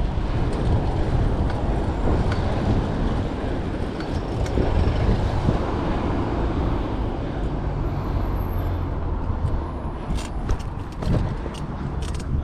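Road traffic noise with a steady low rumble, heard while riding a bicycle in city traffic. Several sharp clicks or rattles come near the end.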